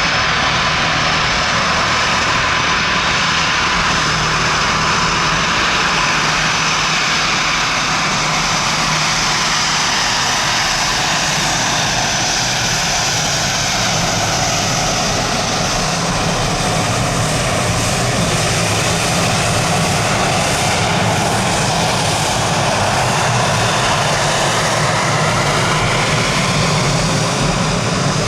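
Airplane engine running loudly and steadily. From about halfway through, its tones slide in pitch as the aircraft moves past.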